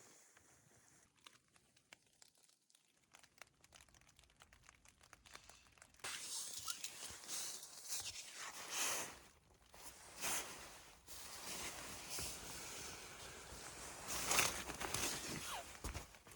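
Crinkling and rustling handling noise, starting about six seconds in after a quiet stretch with faint ticks, and swelling louder a few times.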